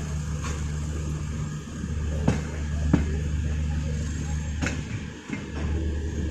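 Moving express train heard on board: a steady low rumble of the running coach, with several sharp clacks as the wheels pass over rail joints.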